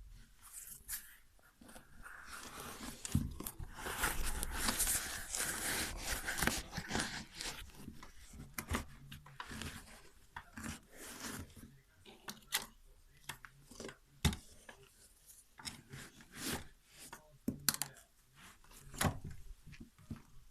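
Sneaker and its insole being handled: a few seconds of tearing, rustling noise, then a string of short scrapes and clicks. This fits a glued-in insole being peeled from the sole and reworked, done to stop the shoe squeaking.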